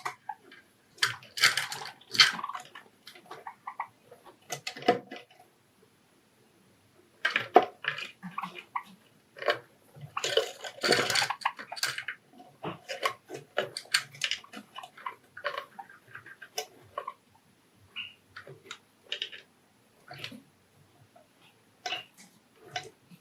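Pet Java sparrows busy at a dish: irregular clusters of quick taps and splashing, heaviest in the first couple of seconds and again from about seven to twelve seconds in.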